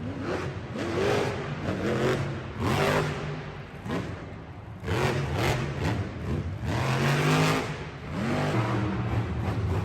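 Monster truck engine revving hard and easing off again and again, its pitch climbing and dropping about five times.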